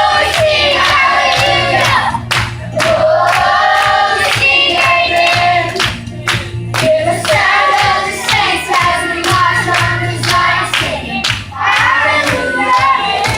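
Children's choir singing a worship song over instrumental accompaniment with a steady beat and bass.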